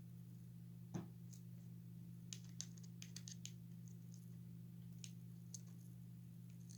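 Faint clicks and taps of hands handling the toy's plastic parts: one soft knock about a second in, then a quick run of small clicks, over a steady low hum.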